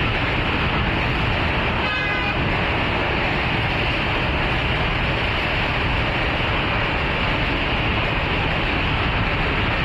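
Steady rumble of a passenger train's coaches rolling across a steel truss rail bridge, mixed with road traffic passing on the bridge's road deck. A short horn beep sounds about two seconds in.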